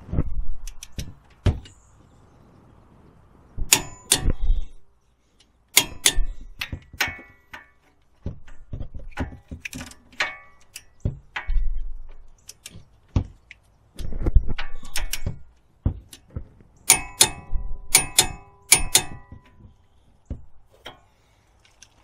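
Metal tools and steel car parts clinking and clanking in irregular groups of sharp knocks, some ringing briefly, with a run of three ringing clanks near the end, from hand work on a car's front wheel hub assembly.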